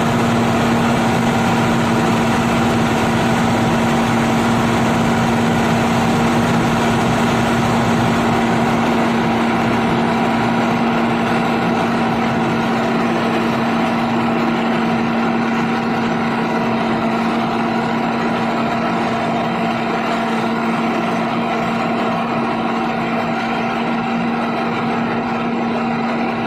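Nissan TZA 520 dump truck's diesel engine running steadily with an even drone, no revving.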